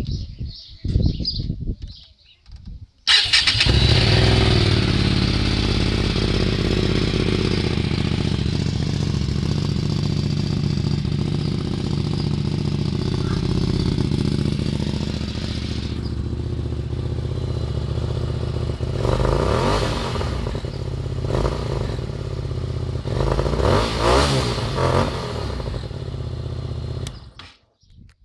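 Hyosung GTR 250's 250 cc V-twin engine through an aftermarket Dan Moto exhaust: it fires up about three seconds in and idles. It is revved in two bursts in the second half, then shut off near the end.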